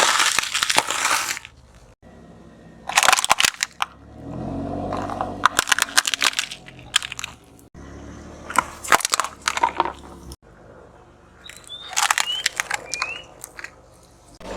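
Brittle objects crushed under a car's tyre: five separate bursts of crackling and crunching, with a low hum between two of them.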